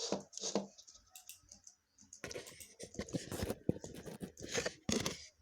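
Crinkly rustling and crackling from a plastic popcorn snack bag being handled: a few short bursts, then a dense stretch of crackling from about two seconds in until just before the end.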